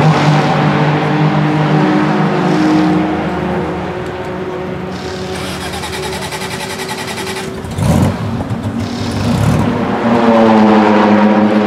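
Porsche 914/6 GT's flat-six engine running, its revs holding and then rising and falling, with a sudden louder burst about eight seconds in.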